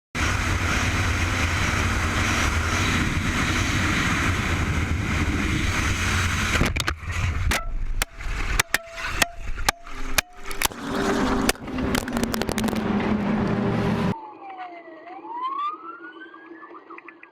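Loud, steady noise, then a run of sharp bangs and knocks. After a sudden cut about 14 seconds in comes a quieter stretch with an emergency-vehicle siren wailing, its pitch sliding down, up and down again.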